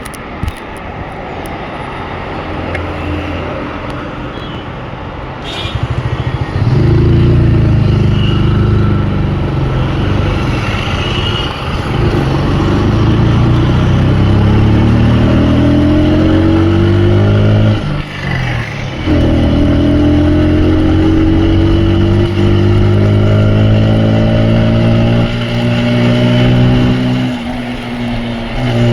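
Motorcycle engine accelerating through the gears, its pitch climbing and falling back at each shift, with a short break about two-thirds through. The first several seconds are quieter road and traffic noise before the engine gets loud.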